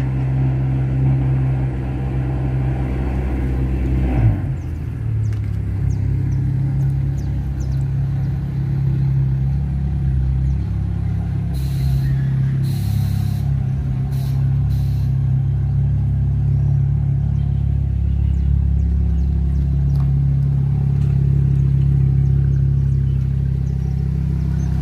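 A car engine running with a steady low rumble, with a knock about four seconds in and a few short hisses about halfway through.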